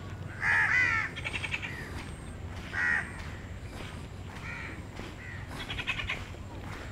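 Birds calling with harsh, cawing calls, several in a row, the loudest about half a second in, with a quick rattling call twice.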